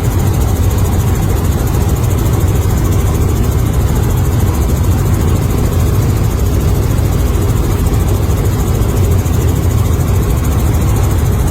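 Helicopter engine and rotor noise, loud and steady, with a deep low drone.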